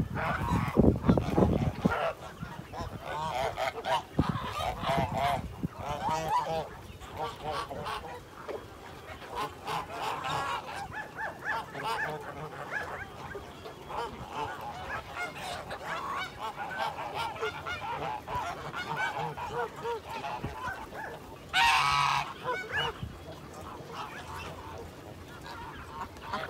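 Birds calling over and over, many short calls overlapping, with one louder call about 22 seconds in.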